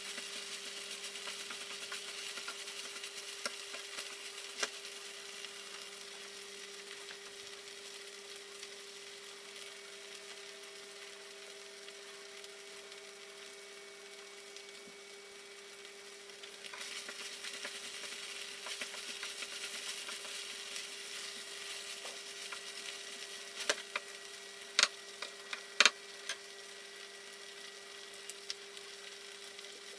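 Schupfnudeln, vegetables and melted herb cheese sizzling in a nonstick frying pan, stirred with a spatula in the first few seconds and then frying undisturbed. A steady low hum runs beneath, and a few sharp clicks come about three-quarters of the way through.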